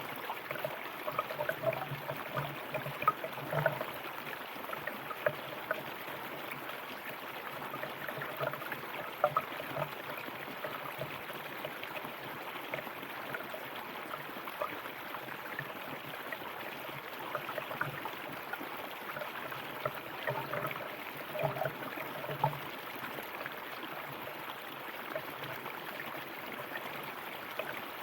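A river or stream flowing steadily, water running and gurgling over stones with many small splashes and bubbles.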